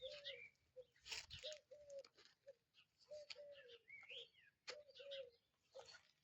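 Faint birdsong: short, low cooing notes repeating, often in pairs, mixed with higher chirps and rising-and-falling whistles from small birds.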